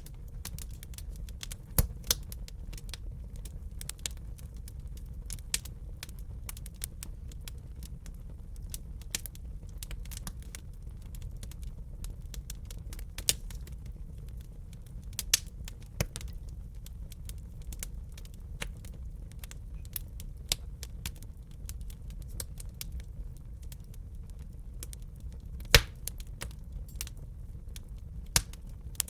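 Wood fire burning in a fireplace: irregular sharp crackles and pops over a steady low rumble of the flames, with a few much louder pops scattered through.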